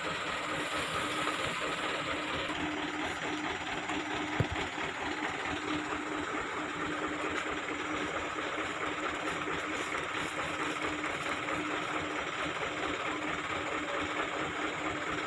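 An engine running steadily at idle, with one short sharp knock about four and a half seconds in.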